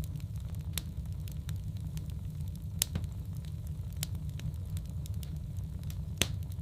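Wood fire burning in a fireplace, crackling with scattered sharp pops over a low steady rumble. Two louder pops come about three seconds in and near the end.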